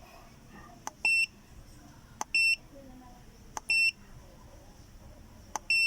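Handheld OBD scan tool beeping four times, each short high beep following the click of a button press, while the check-engine codes are being erased.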